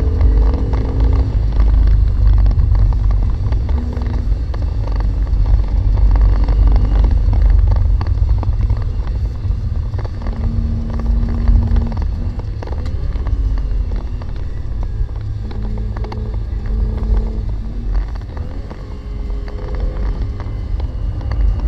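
Renault Clio V6's mid-mounted 3.0-litre V6 heard from inside the cabin while the car is driven at speed, under a heavy, steady low rumble; its note steps up and down in pitch several times with changes in revs.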